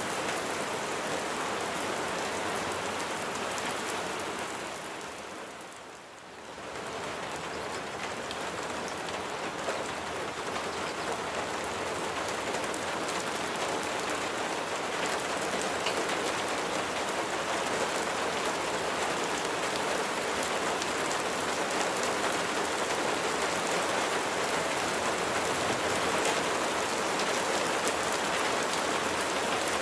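Steady rain falling on a surface, with individual drops pattering. About six seconds in it briefly fades down, then swells back to a steady level.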